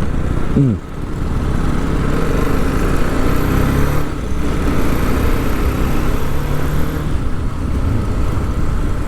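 TVS Apache RR 310 single-cylinder motorcycle engine running at low road speed, with wind and road rumble on the helmet microphone; the engine note dips briefly about four seconds in.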